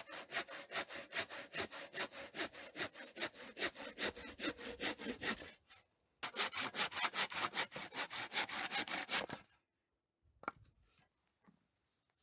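Hand saw cutting wood in quick, even strokes, about four or five a second. It pauses briefly near the middle, resumes, then stops about three-quarters of the way through, followed by a few faint knocks.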